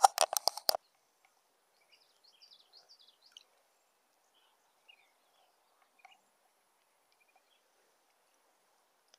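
A rapid run of about six sharp knocks in the first second, then small birds chirping faintly and intermittently over a quiet pond.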